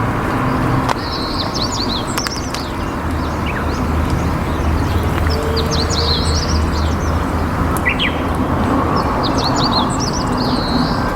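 A small songbird chirping in three short runs of quick high notes, over a steady low background rumble.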